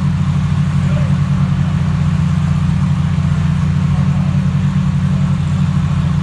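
Twin-turbo Lamborghini Huracán Performante V10 idling steadily, its sound held low in pitch with a fast, even pulse.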